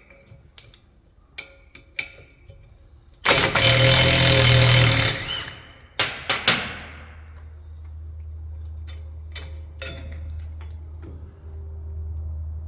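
An impact wrench runs hard for about two seconds, spinning off one of the four bolts that hold the rear drum-brake backing plate to the axle housing. A few sharp metal clinks follow, then a steady low hum.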